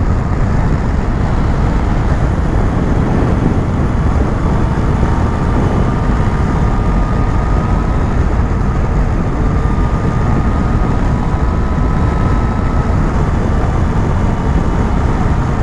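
Motorcycle riding at steady road speed: a steady rush of wind and road noise on a helmet- or bike-mounted microphone, with the engine running underneath and a faint steady whine.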